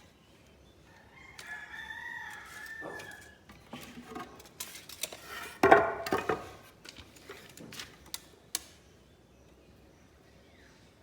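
A rooster crowing: a first crow about a second in, then a louder, closer crow around the middle. A few sharp knocks come in between and after.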